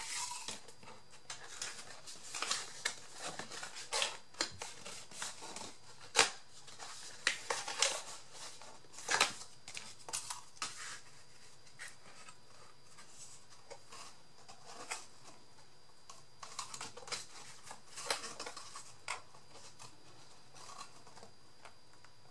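Scissors snipping and paper being handled in irregular spurts, with a few sharper clicks about six and nine seconds in.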